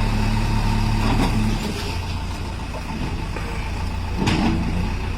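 Motor vehicle engine running steadily, its note dropping about one and a half seconds in, with a short sharp sound about four seconds in.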